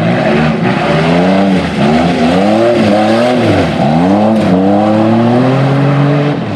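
Old cars' engines racing on the track, revving up and dropping back again and again, with more than one engine heard at once, over the noise of the cars going round.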